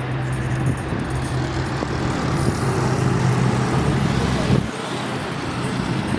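Highway traffic passing close by: a heavy truck's engine drone over tyre and road noise, the low engine hum dropping away about four and a half seconds in.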